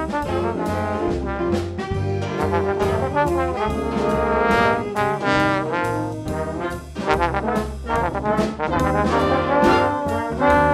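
Brass band music: trumpets and trombones playing a melody over a steady percussion beat.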